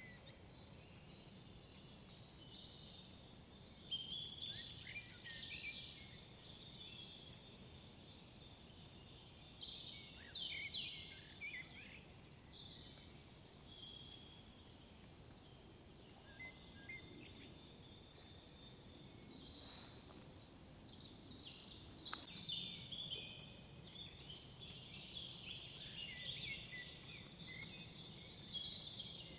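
Several songbirds singing in woodland: a high, thin trilled phrase of one or two seconds recurs four times, among busier chirping and warbling phrases from other birds.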